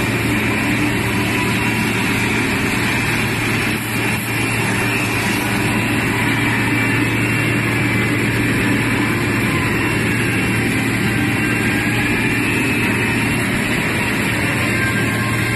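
Industrial pressure sanding machine running steadily, its motors giving a constant low hum under a broad grinding hiss, with a brief dip about four seconds in.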